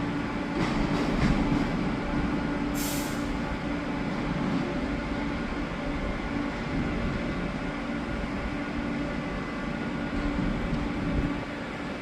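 Train running with a steady rumble and a low hum. A few light clicks come in the first couple of seconds, and a brief hiss about three seconds in.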